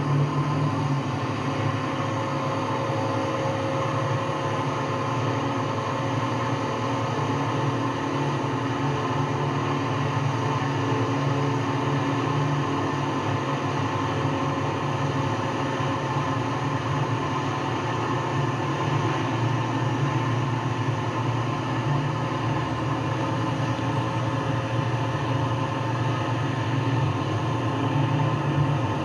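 A Sicard street-cleaning truck running steadily as it works. It makes a continuous low engine drone with a faint steady whine over it.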